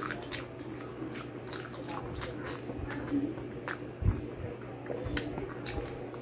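Chewing a mouthful of crispy pata, deep-fried pork leg: a run of short, sharp crunching clicks and wet mouth sounds, with a dull low thump about four seconds in.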